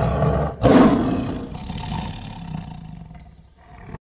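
Tiger roaring: one roar breaks off just over half a second in, then a second, louder roar starts and slowly fades away.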